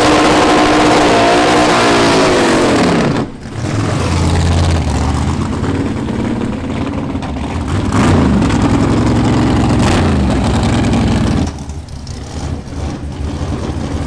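Drag race car engines revving loudly, the pitch rising and falling in the first few seconds, then running at a lower, steadier pitch with another rev in the middle, dropping off near the end.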